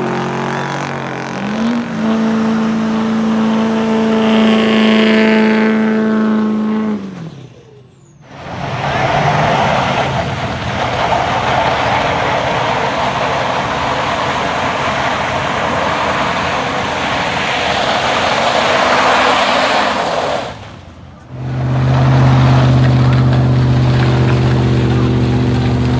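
Truck engine revving: the pitch jumps up about a second and a half in, holds at high revs, then falls away around seven seconds. A long stretch of rushing noise follows, then an engine running steadily at a low, even pitch near the end.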